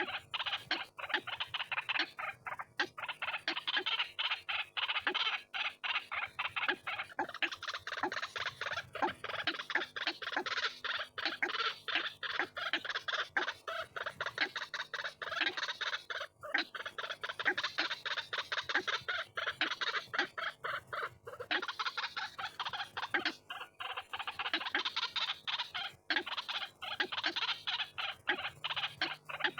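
White-breasted waterhen (ruak-ruak) calls, a dense unbroken run of rapid repeated notes, several a second, from a bird-lure recording.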